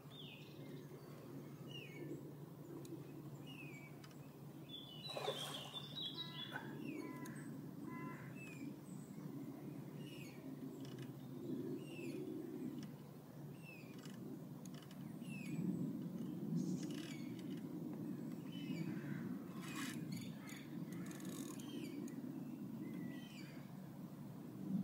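Small birds chirping, short repeated calls about once a second, with a busier burst of calls about five seconds in, over a low steady background rumble. A few faint knocks or rustles, the loudest about five seconds in.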